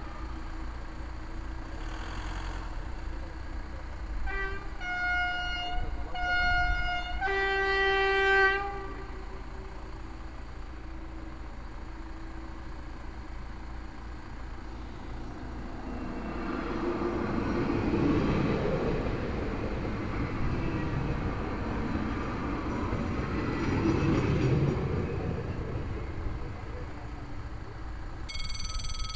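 An electric TER passenger train sounds its horn on approach: two short blasts, then a longer, louder one at a lower pitch. About ten seconds later it runs past with a rising and falling rumble of wheels on rail. Near the end a level-crossing warning alarm starts ringing steadily.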